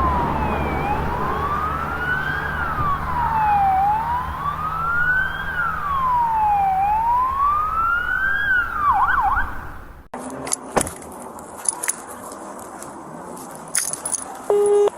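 Police siren on a wail, rising and falling about every three seconds, breaking into a brief fast yelp near nine seconds, then cutting off abruptly at about ten seconds. Scattered clicks and knocks follow, with a short steady tone near the end.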